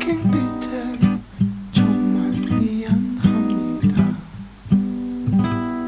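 Music: an acoustic guitar strumming chords in an instrumental passage of a song, without singing.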